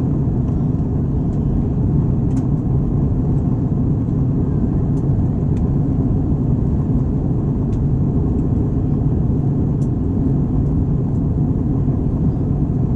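Steady low rumble of an Airbus A321 heard from inside the passenger cabin: the engines and airflow, with a few faint ticks.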